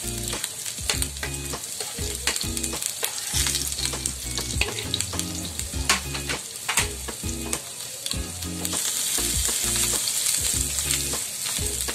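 Chopped ginger and garlic sizzling in hot soybean oil in a nonstick frying pan, with many small crackles and pops. Near the end a spatula stirs them through the oil and the sizzle grows fuller.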